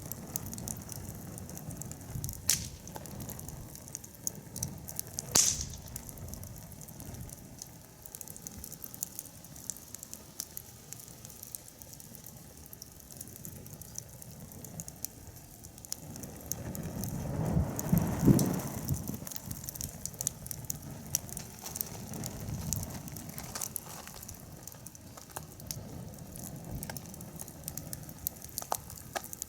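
Wood fire crackling, with scattered sharp ticks throughout and two louder pops about two and a half and five seconds in. A low rushing swell builds and fades a little past halfway.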